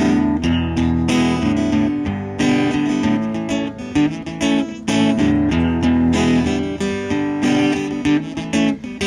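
Acoustic guitar strummed in a steady rhythm, an instrumental break in a country song with no singing.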